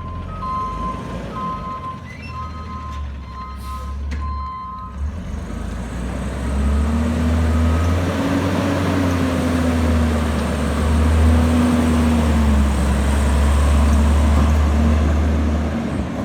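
Garbage truck's backup alarm beeping at a steady pace for about five seconds, then its diesel engine revs up and runs loud, its pitch rising and falling.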